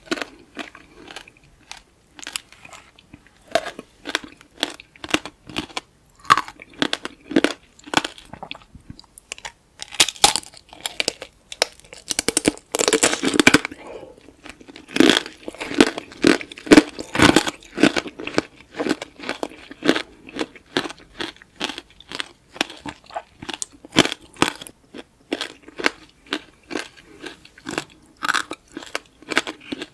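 Close-miked biting and chewing of tanghulu, candied fruit in a hard glassy sugar shell: the shell cracks and crunches in many sharp snaps, densest and loudest in the middle stretch.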